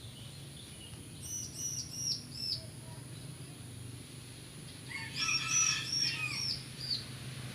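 A small bird calling: two runs of short, high, down-slurred notes, about three a second, the first run fainter and the second louder and fuller.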